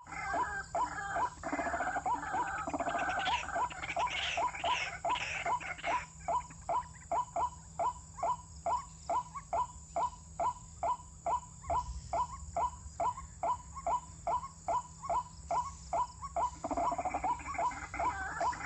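White-breasted waterhen calling: a short note repeated about two or three times a second in an even series. The first six seconds and the end hold a busier jumble of overlapping calls.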